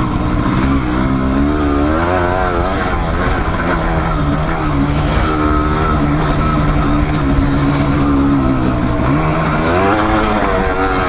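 Dual-sport motorcycle engine under way off-road, its revs rising and falling continually with the throttle, dropping low about nine seconds in and picking up again near the end.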